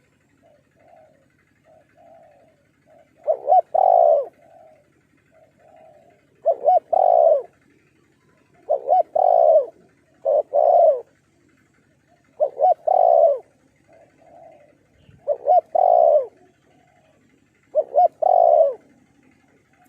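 Spotted doves cooing. A near dove repeats its phrase seven times, two or three seconds apart, each phrase a couple of short notes running into a longer coo, while a fainter dove coos in the gaps.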